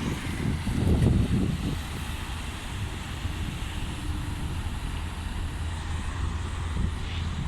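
Steady low engine rumble, likely from a ship, with wind buffeting the microphone during the first two seconds.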